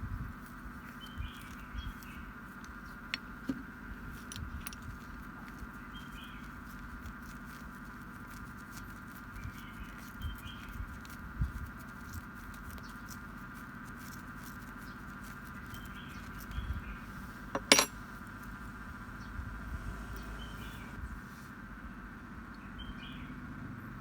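Light metallic clicks and taps of small parts and tools being handled on a workbench, with one sharper click about eighteen seconds in. Faint bird chirps come now and then in the background.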